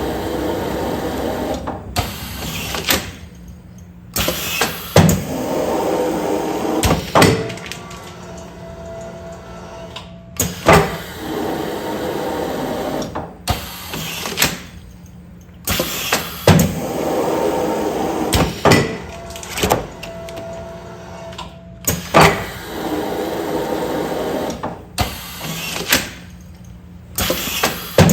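Commercial container sealing machine cycling continuously. A sharp clunk about every five and a half seconds, with a few lighter clicks, and a steady motor hum between strokes that stops briefly in each cycle.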